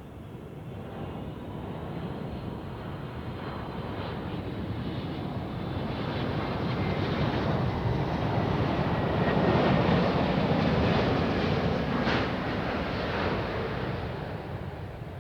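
Airbus A380-861 with four GP7200 jet engines passing on its landing approach: the engine noise swells to a peak about two-thirds of the way through, then fades as it goes by.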